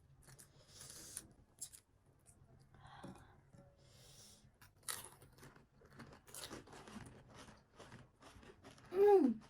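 Crisp panipuri shells crunching as they are bitten and chewed, in short irregular crunches throughout. Near the end comes a brief vocal sound falling in pitch, the loudest thing heard.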